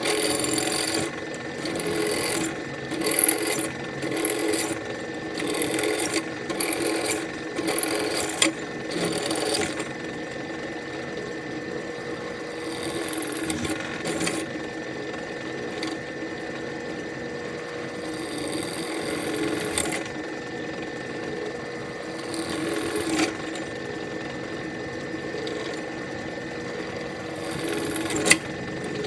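Electric drill enlarging the holes in a motorcycle exhaust baffle, the bit grinding through the metal in short bursts about once a second. After about ten seconds the motor runs more steadily, with a few louder bites later on.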